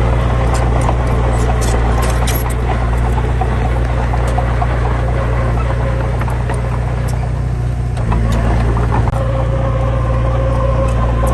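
A heavy diesel engine running under steady load with a deep, constant drone. It eases off slightly just before eight seconds in and picks back up, with scattered light clicks and rattles.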